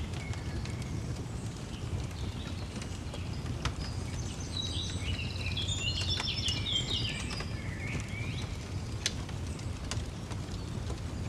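Birds singing over a low, steady fire rumble, with a dense run of quick chirps and trills about halfway through. A few sharp crackling pops from the fire stand out now and then.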